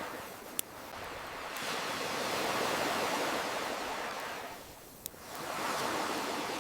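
Ocean waves washing in slow swells, with the surf sound building, ebbing and building again. Two sharp crackling pops from a campfire stand out, about half a second in and about five seconds in.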